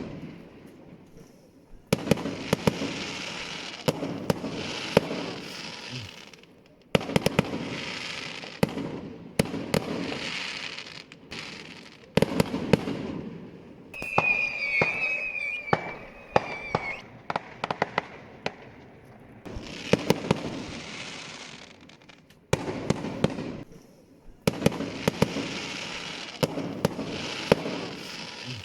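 Fireworks going off in repeated bursts a few seconds apart, each a sudden cluster of sharp bangs and crackles that trails off over a few seconds. Midway a whistling firework sounds a whistle that falls slightly in pitch.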